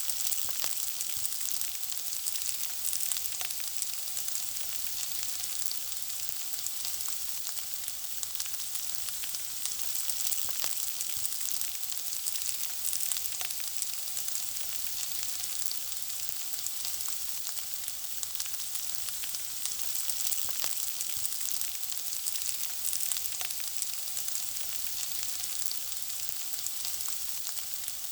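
Food frying in hot oil: a steady sizzle full of small, fast crackles and pops.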